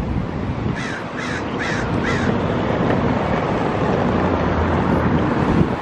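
A bird calls four times in quick succession about a second in, each call a short, harsh note, over steady background noise.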